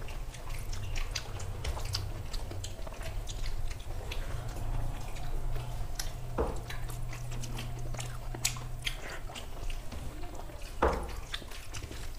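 Mouth sounds of two people eating rice and curry with their hands: chewing and wet lip-smacking clicks, with fingers squishing rice on steel plates, over a low steady hum.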